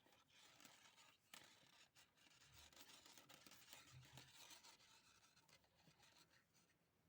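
Near silence: faint rustling and light scratching of yarn being worked on knitting needles and a crochet hook, with a few soft ticks.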